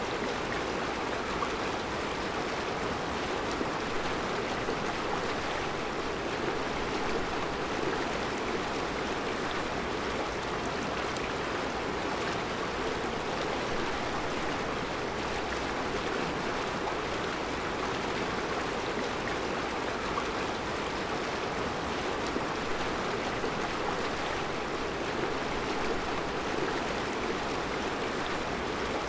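Mountain river flowing over round rocks in a rocky bed: a steady rushing of water with no changes.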